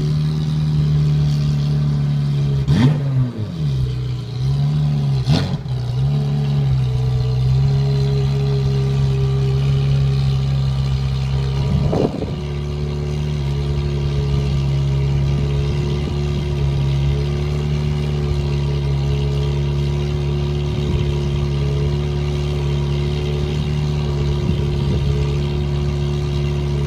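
Ferrari F355's V8 exhaust running at a steady idle, with two quick throttle blips in the first six seconds and a short one about twelve seconds in.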